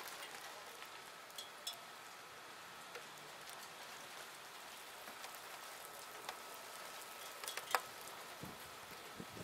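Light rain falling: a steady soft hiss with scattered single raindrops ticking on nearby surfaces, a few louder drops landing about seven and a half seconds in.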